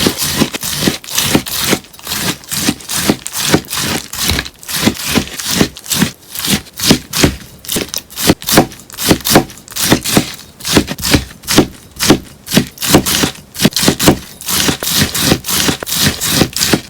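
A kitchen sponge being cut over and over in quick crisp snips, about three a second.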